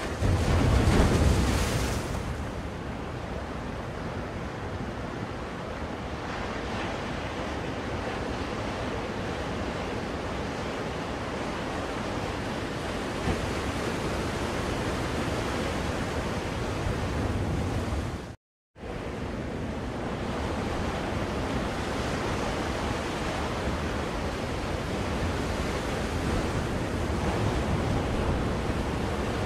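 Ocean surf used as soothing white noise: a continuous hiss of waves washing in, with one louder wave breaking about a second in. The sound cuts out completely for a split second about two-thirds of the way through.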